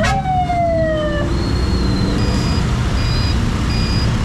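A police patrol car's siren gives a single short downward-sliding whoop, over steady road traffic. From about two seconds in, short high beeps repeat at an even pace, like a vehicle's reversing alarm.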